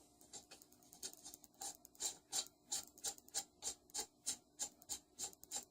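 Ratchet wrench clicking in an even rhythm, about three sharp clicks a second, as a nut is run back onto the engine's crankshaft.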